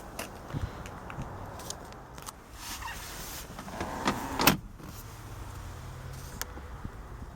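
Handling noises inside a car: a few sharp clicks, a shuffling scrape, then a louder scrape ending in a clunk about four and a half seconds in, followed by a faint steady hum.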